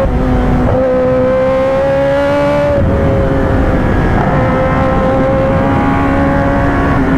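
2023 Kawasaki ZX-10R's inline-four engine running steadily as the bike is ridden. Its pitch creeps up, drops about three seconds in, then holds a steady note.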